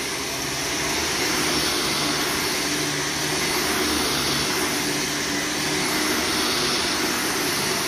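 Vacuum cleaner running steadily as it pre-vacuums a worn, compacted carpet ahead of cleaning, with a constant rushing airflow and a faint steady motor hum.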